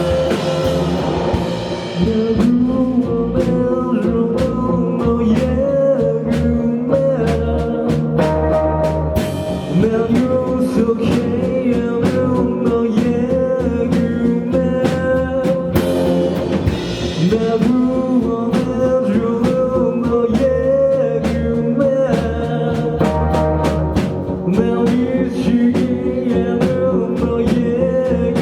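An indie rock band playing live, with drum kit, electric guitars and a singer, loud and unbroken.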